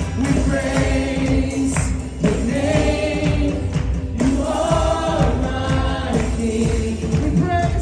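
Gospel praise music: a choir singing held, sliding lines over a steady beat with bass and tambourine.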